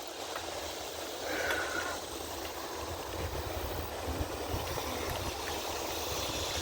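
Steady rushing noise while riding a bicycle: wind buffeting the microphone, over the hiss of tyres rolling on the path.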